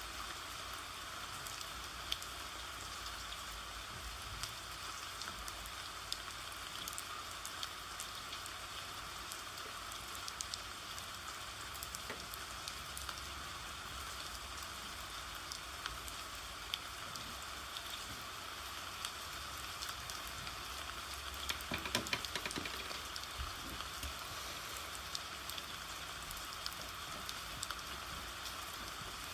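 Steady rain falling, an even hiss with scattered drop ticks. About 22 seconds in, a brief cluster of clicks and taps sounds over the rain.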